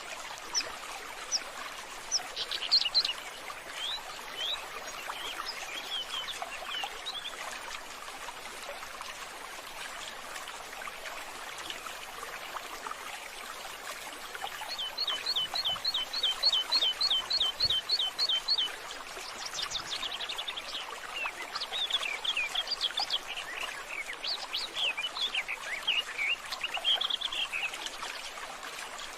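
Several birds chirping and calling, one repeating a short down-slurred note about four times a second for a few seconds near the middle, over a steady hiss of running water.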